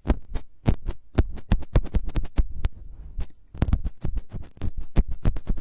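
A quick run of crisp close-microphone ASMR taps and scratches, about four to six a second, with a brief lull a little after three seconds in.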